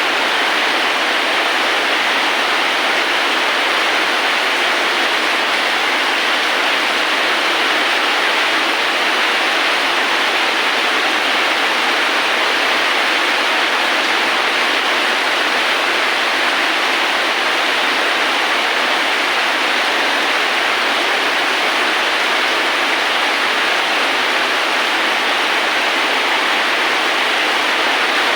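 Steady rain falling, an even unbroken hiss with little low rumble.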